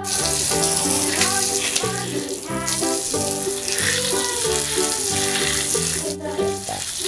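Water spraying with a steady hiss, over cheerful background music. The hiss fades near the end while the music goes on.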